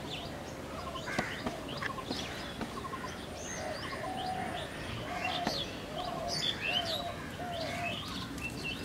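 Several birds chirping and calling: quick high chirps scattered throughout, over a run of lower, arched calls repeated about once a second.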